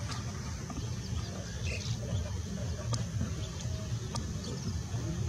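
Low, uneven outdoor rumble with faint, short bird chirps now and then and a few light clicks.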